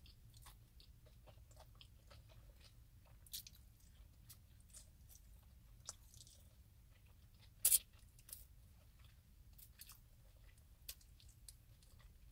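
A person chewing and crunching bacon-wrapped quail pulled off the bone, with many small wet clicks and crackles and one sharper crack about two-thirds of the way through.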